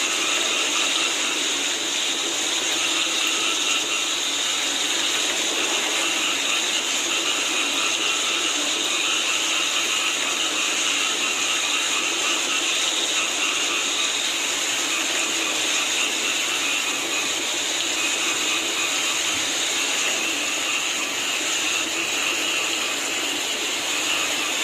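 Steady rain with a dense chorus of frogs calling, a continuous even wash of croaking over the patter of the rain.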